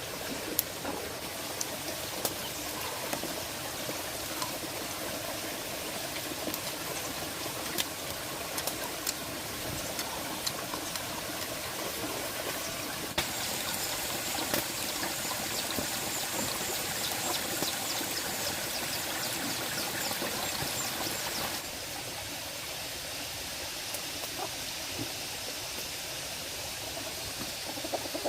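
Water running and trickling steadily, with scattered small clicks; a brighter, hissier stretch starts abruptly about halfway through and stops sharply near three quarters of the way.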